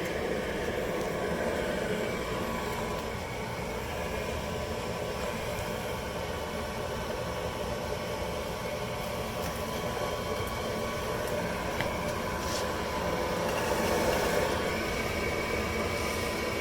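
Gas furnace running at the start of its heating cycle: a steady whir of its fan motor with a faint steady whine, just after the cleaned flame sensor was put back in.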